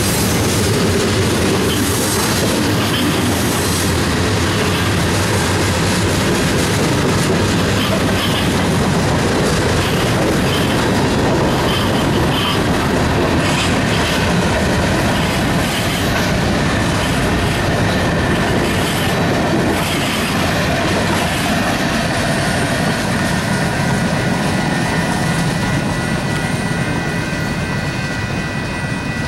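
Freight cars of a Union Pacific train rolling past at close range: a steady rumble with repeated clicking and clattering of the wheels over the rail joints, easing slightly near the end.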